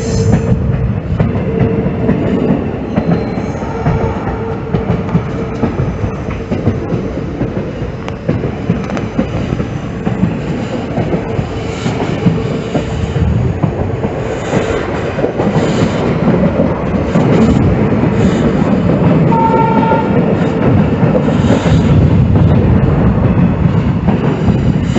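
Passenger train running along the track, its wheels clattering over the rails with a continuous rumble that grows louder about two-thirds of the way through.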